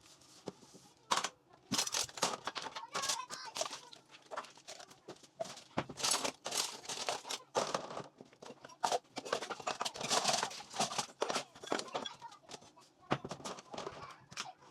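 Irregular clattering and crinkling of things being handled, with many sharp clicks and short rustles.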